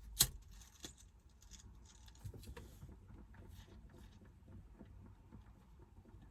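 A single sharp click just after the start, then faint, irregular light tapping and ticking over a low background rumble.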